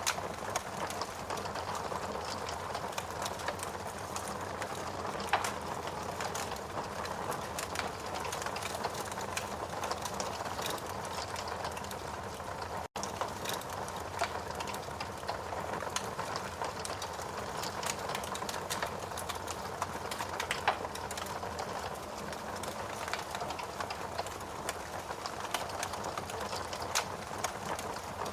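Steady rain hiss with a wood fire crackling, irregular sharp pops scattered through it. The sound drops out for an instant about 13 seconds in.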